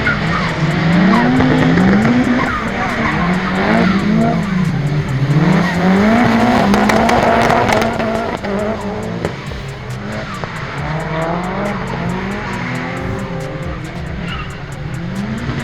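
Car engines at a drift track revving up and down over and over, about once a second, with tyre squeal from cars sliding through the turns. It is loudest in the first half and eases a little after the middle.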